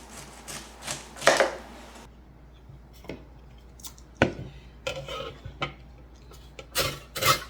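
Knife cutting through crunchy raw cabbage on a cutting board: groups of short crunching cuts with pauses between them, one sharp knock in the middle and the loudest run of cuts near the end.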